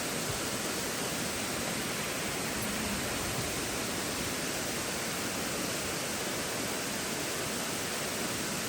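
Steady, unbroken rush of water falling and running over rocks at a creek waterfall.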